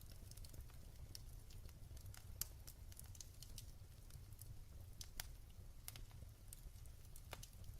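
Wood fire burning in a fireplace: a low steady rumble of the flames with irregular sharp crackles and pops, the loudest a couple of seconds in and again about five seconds in.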